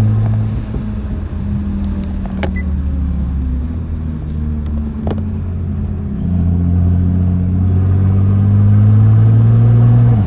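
Nissan GT-R R35's twin-turbo V6 engine under throttle while driving. It runs steadily at first, then from about six seconds in it grows louder with the pitch slowly rising as it accelerates, and it eases off right at the end.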